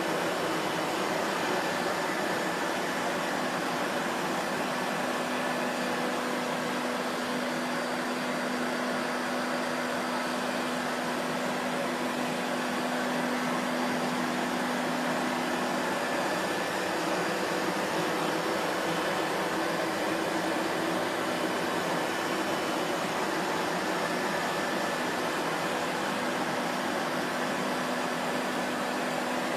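Vacuum cleaner motor running steadily, a constant whooshing hum with a faint steady whine and no change in pitch.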